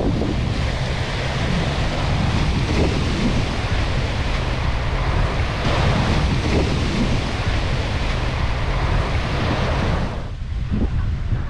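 Surf washing onto a sandy beach, with wind buffeting the microphone as a heavy low rumble. About ten seconds in, the higher hiss of the surf drops away briefly.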